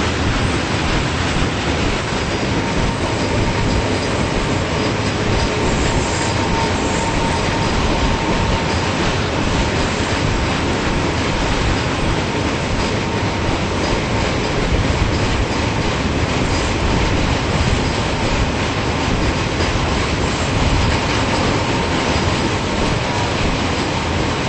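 Freight cars of a coal train rolling past: a steady loud rumble and clatter of wheels on the rails, with faint steady squealing tones above it.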